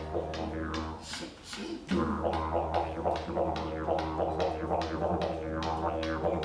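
Didgeridoo played live: a low, steady drone with rhythmic pulses and shifting overtones. It dips briefly about a second in, then comes back strong.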